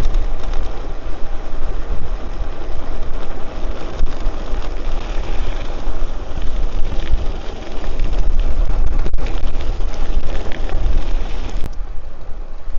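Wind buffeting the microphone of a camera on a moving cyclocross bike: a loud, rough rumble that rises and falls unevenly, with a couple of sharp knocks.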